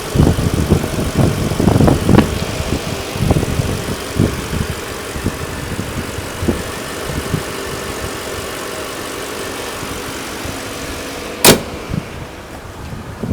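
Hyundai Genesis's Tau 4.6-litre DOHC V8 idling steadily, with wind gusting on the microphone over the first few seconds. A single sharp thump about eleven and a half seconds in.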